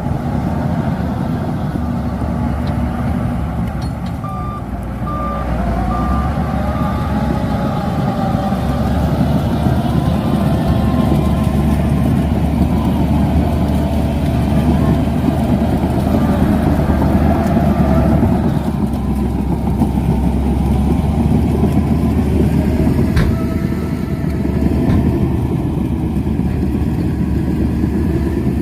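Shantui DH17C2 bulldozer's diesel engine running under varying load, with its reversing alarm beeping several times about four to six seconds in. The engine works harder from about six seconds on, easing briefly near the end.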